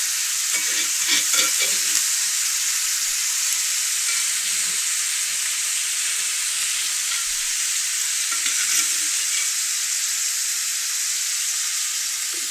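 Ground beef and chopped onions frying in oil in a cast iron skillet: a steady sizzling hiss, with a few light scrapes of a utensil in the pan about a second in and again near the end.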